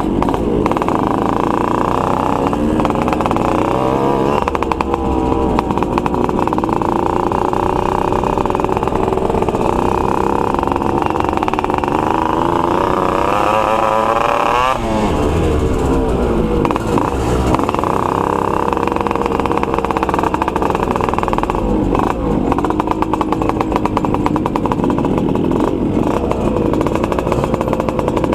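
Two-stroke motorcycle engines running under way. The engine pitch rises and falls as they rev, with a quick rise and drop about halfway through.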